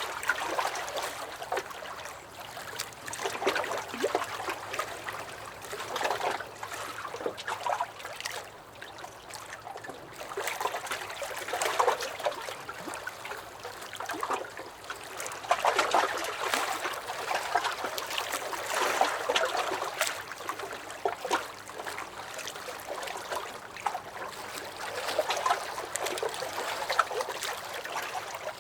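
Small lake waves lapping and slapping against a dock, with splashy swells coming irregularly every few seconds and small splashes and trickles between them.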